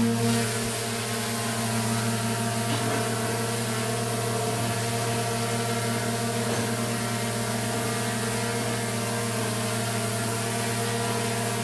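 Quadcopter drone's motors and propellers giving a steady, even hum with a high hiss over it.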